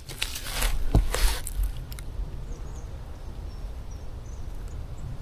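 Dry leaves and twigs rustling and crackling under bare feet for about two seconds, with a few sharp snaps. After that it goes quiet, with a few faint, high bird chirps.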